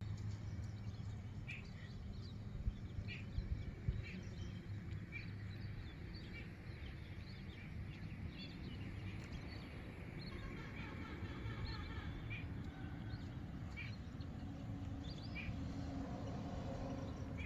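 Birds chirping outdoors: short calls repeat about once a second, with a quick run of notes about ten seconds in, over a steady low rumble.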